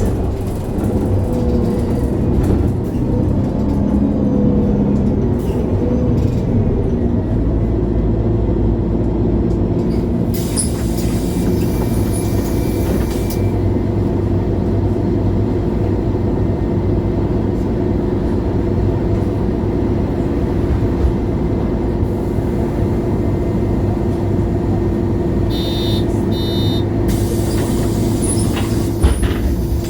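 2011 MAN Lion's City G (A23) articulated city bus running under way, its diesel engine a steady drone with a held engine tone. About ten seconds in, a hiss lasts for about three seconds, and brief high-pitched squeaks come near the end.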